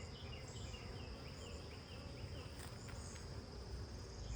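Honeybees buzzing around an opened hive, a colony growing agitated. Behind them are a steady high-pitched insect drone and a run of short repeated chirps.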